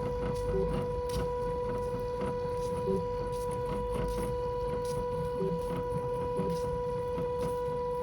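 Small electric drive motor of an autonomous model tracking truck running with a steady whine that does not change pitch, with faint scattered clicks and a low rattle.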